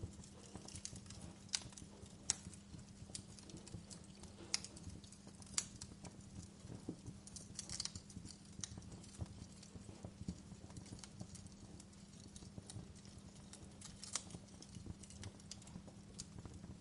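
Wood fire crackling in a fireplace: irregular sharp snaps and pops of varying strength over a low rumble, with a faint steady hum underneath.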